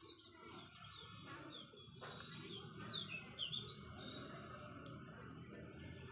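A bird chirping: a string of short, quickly falling high chirps, loudest a little past the middle.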